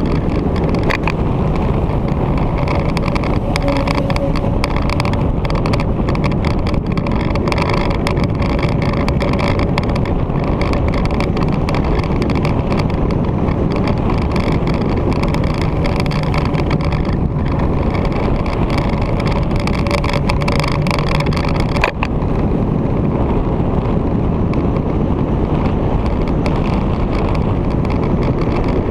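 Victory motorcycle's V-twin engine running steadily on the move, under a constant rush of wind on the microphone. A single sharp click sounds about three-quarters of the way through.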